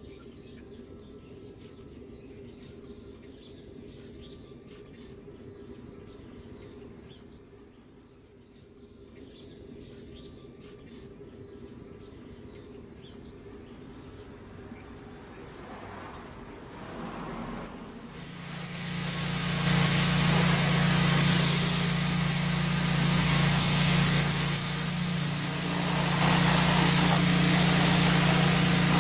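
Small birds chirping over quiet outdoor background noise. About two-thirds of the way through, a loud motor-driven machine starts up and runs steadily with a low hum and a wide hiss.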